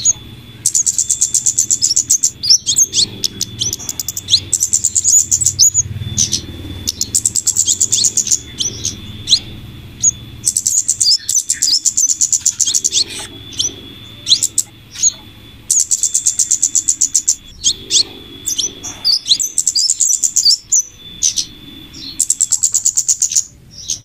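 Bird-lure recording of flowerpecker (kemade/cabe-cabean) calls combined with female scarlet minivet calls. Rapid trains of high, thin chirps lasting a second or two repeat every couple of seconds, with single sharp notes in between.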